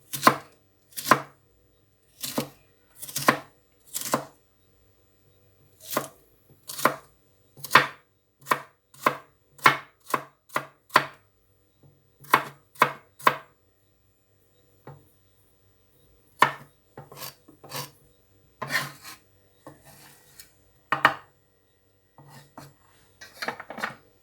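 A knife chopping a carrot on a cutting board: a string of sharp, separate knocks, roughly one or two a second, with a few short pauses.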